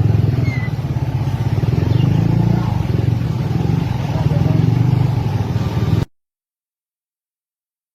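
Vehicle engine running close by, a loud steady low rumble that cuts off suddenly about six seconds in.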